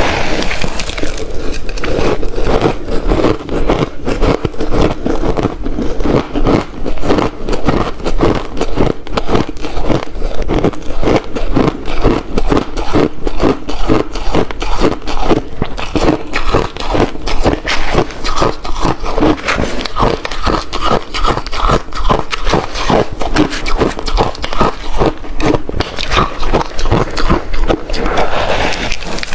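Close-miked crunching of ice being bitten and chewed, a rapid, continuous run of crisp crunches with no pause.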